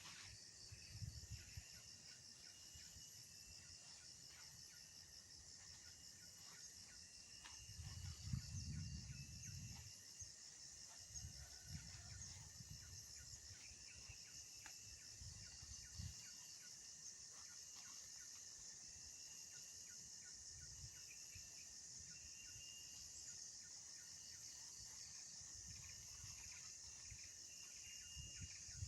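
Insects chirring steadily in a faint, continuous high drone, with a thinner intermittent chirp beneath it and a few low thumps and rumbles about a third of the way in.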